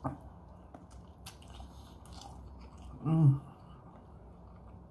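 Close mouth sounds of a person biting into and chewing a siomai dumpling, soft and wet, with a short click at the start. About three seconds in comes a brief voiced hum.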